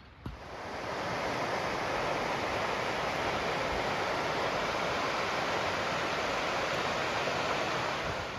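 A click, then a small gas camping burner hissing steadily as its flame burns.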